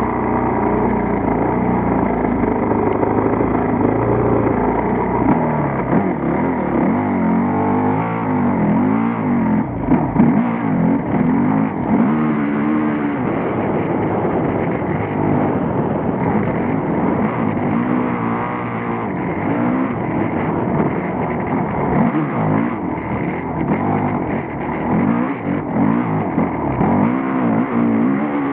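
Motocross bike's engine revving up and falling back over and over as the throttle is opened and closed, picked up close by a handlebar-mounted camera.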